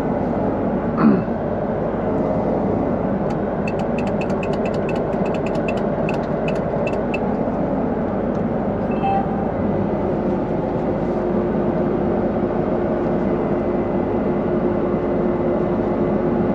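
Combine harvester running steadily, heard from inside the cab. From about three and a half to seven seconds in, a cab alarm dings rapidly, about four short high beeps a second. A brief falling squeal comes about a second in.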